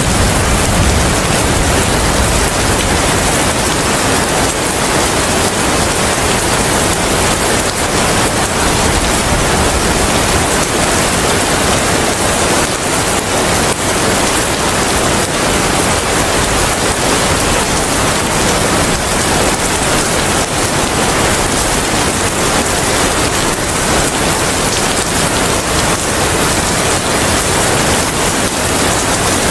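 Steady heavy rain, an even hiss with no breaks. A low rumble dies away in about the first second.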